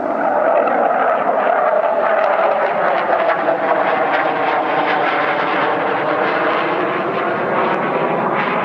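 Military jet aircraft taking off, a loud steady jet roar whose pitch sinks slowly.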